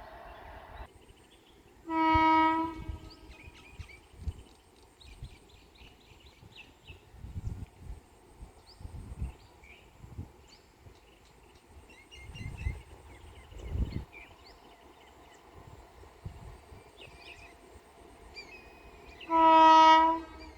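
Train horn sounding two short single blasts, one about two seconds in and another near the end, each about a second long.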